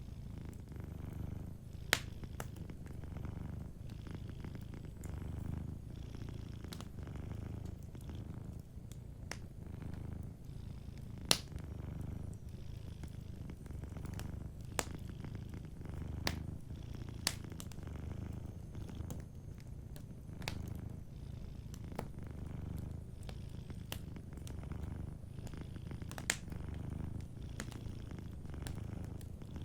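Domestic cat purring, a low rumble that swells and fades in a slow rhythm with its breathing. Sharp pops and crackles from a wood fire come about ten times, two of them louder than the rest.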